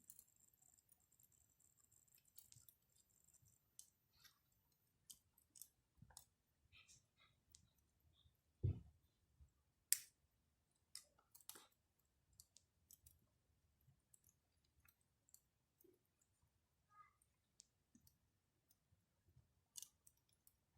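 Wood campfire crackling faintly, with sparse scattered pops and ticks. A dull thump comes a little before the middle, and the loudest sharp crack follows about a second later.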